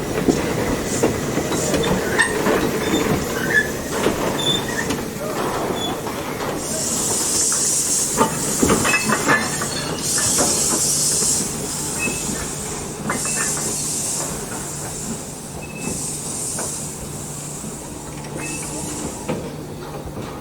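Steam locomotive working slowly, with bursts of steam hissing about every two to three seconds. Clanks and squeaks come from the train around the middle.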